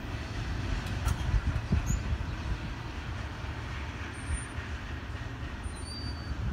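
Rear double-stack cars of a CSX intermodal freight train rolling away over the rails, a low rumble of wheels that eases off slowly.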